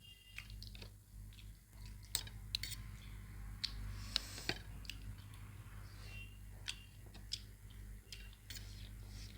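People chewing mouthfuls of chow mein noodles, with many small, irregular clicks and crackles over a faint, steady low hum.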